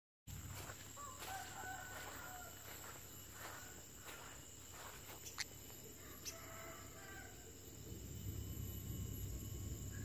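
Faint bird calls outdoors: two calls of about a second each, one about a second in and one about six seconds in, with a sharp click between them.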